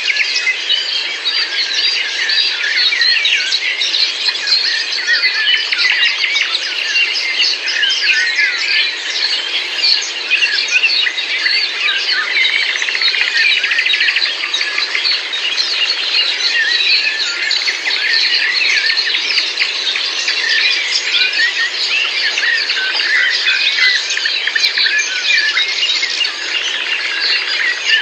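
Many songbirds singing and chirping at once, a dense, continuous chorus of overlapping calls and trills.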